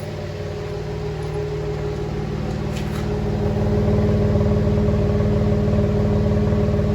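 GM 3.6 L V6 engine of a 2015 GMC Canyon idling steadily on a cold start, just after a misfire repair; it sounds good, and smoother to the mechanic's ear. It grows louder about three and a half seconds in.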